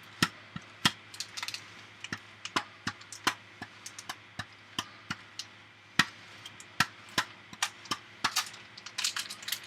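Block of Parmesan being shaved on a mandoline: irregular short scraping strokes and clicks as the cheese passes over the blade, about one or two a second, coming faster near the end.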